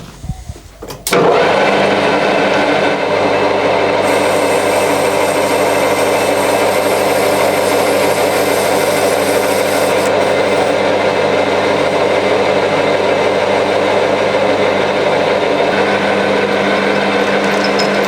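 Metal lathe starting up about a second in and then running steadily with a low hum while a cutting tool faces and turns a brass workpiece.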